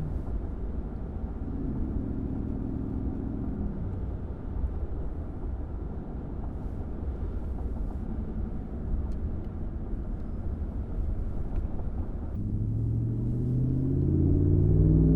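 Ram 1500's 5.7 HEMI V8 exhaust rumbling low and steady while the truck is driven gently. About twelve seconds in it gets louder and the engine pitch climbs as the truck accelerates.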